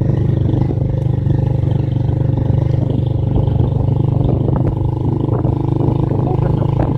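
Motorcycle engine running at a steady cruising speed, with a continuous low drone and wind rumble on the microphone during the ride.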